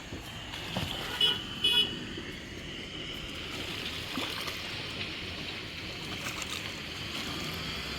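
Two short vehicle horn toots about a second in, half a second apart, over the steady noise of road traffic.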